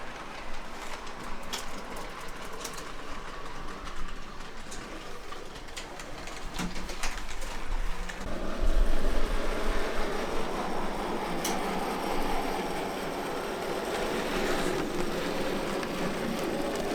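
Model train running on an exhibition layout, light clicks from its wheels on the track over a steady hall background, with a low thump about halfway through.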